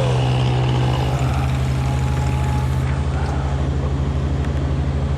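An engine running steadily at idle with an even low throb, just after a chainsaw's revs fall away at the very start.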